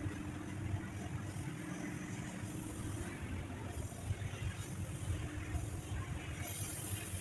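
A steady low engine rumble, like a vehicle idling.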